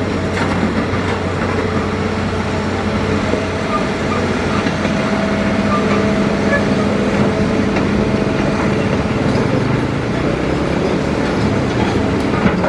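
Hitachi Zaxis excavator running steadily, its diesel engine and hydraulics working. A faint steady whine comes in for several seconds midway.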